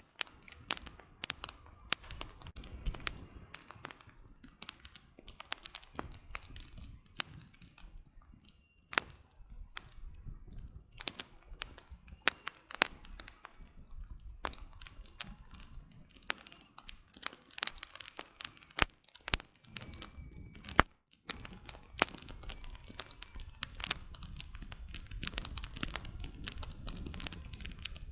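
Wood campfire burning, the firewood crackling with many irregular sharp pops and snaps over a low steady rumble of the flames.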